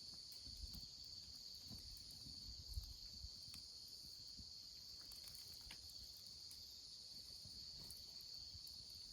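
Faint, steady high trill of crickets, with a few soft crackles from a wood campfire scattered through it.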